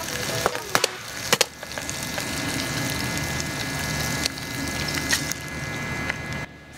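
A few sharp metal clanks as a small skillet of cut-up sausages is set back onto a Firebox Nano wood-burning stove, then a steady sizzle from the sausages frying. An egg is cracked into the pan near the end.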